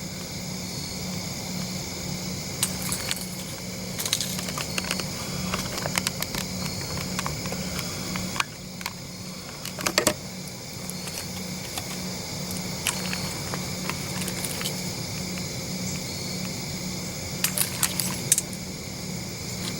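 Scattered small clicks and light metallic rattles of gear being handled, in clusters, over a steady high chorus of evening insects and a low hum.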